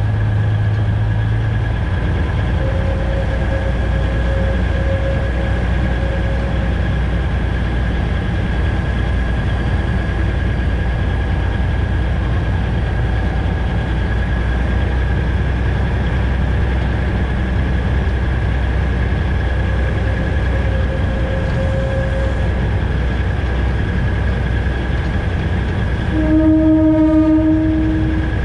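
A locomotive's engine runs steadily as the train moves along the track, with a constant high whine over the low rumble. Near the end the horn sounds once, a single steady note held for about two seconds.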